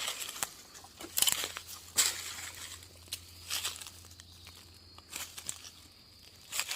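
Irregular rustling and crinkling, a few sharper crackles among softer ones, like something being handled or brushed.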